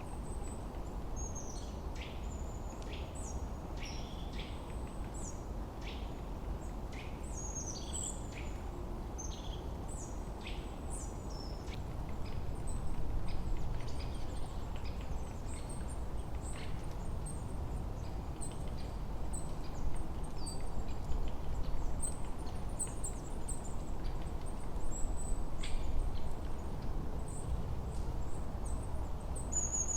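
Forest birds chirping and calling: many quick, high falling chirps, thick in the first half and thinning out later. Underneath, a low steady rush of wind that swells twice.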